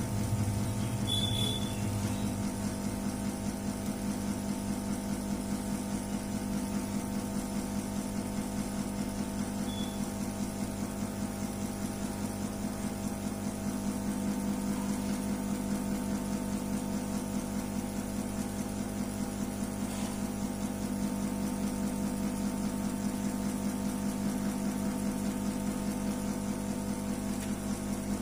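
A steady low mechanical hum, like a small motor or engine running, holding an even pitch throughout.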